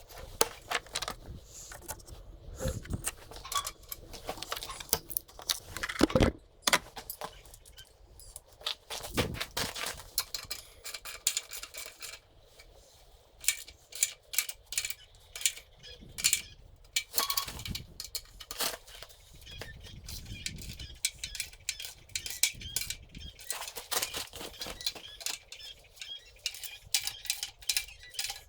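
Irregular metallic clinks, rattles and knocks of hand tools and bolts being worked on a steel frame while fasteners are tightened. The sharpest knock comes about six seconds in.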